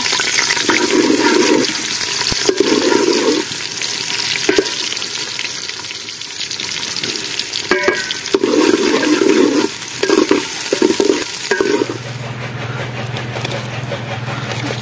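Chopped onions and green chillies sizzling in hot oil in a metal pot, with a steel ladle stirring and scraping against the pot in several bursts about a second long and a few sharp clinks. Near the end the sizzling drops and a steady low hum takes over.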